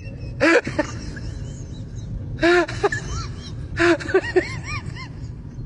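An animal calling: three loud, arching calls about a second and a half apart, with fainter high chirps between them over a steady low rumble.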